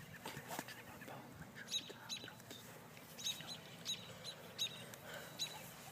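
A small bird giving short, high chirps, about ten of them spaced irregularly, some in quick runs of two or three.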